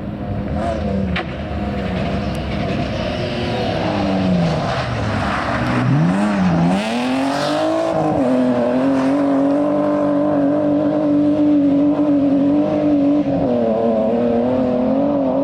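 Rally car engine running hard on a stage. The revs drop off about four seconds in, then climb again and hold high and steady under power, with a brief dip near the end.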